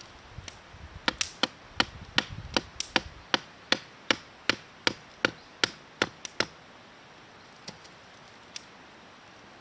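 A blade chopping wood: a quick, even run of about fifteen sharp knocks at nearly three a second, stopping about six seconds in, with a couple of stray knocks after.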